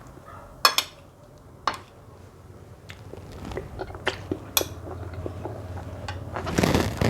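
Cutlery clinking against a dish a handful of times, with mouth sounds of eating and a louder noisy stretch near the end.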